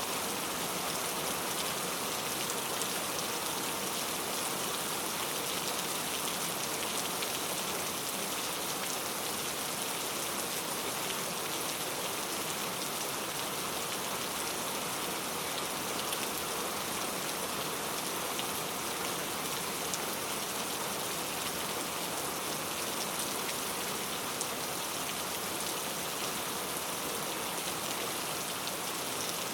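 Steady rain falling, a dense, even hiss of drops with fine ticks of individual drops hitting a surface.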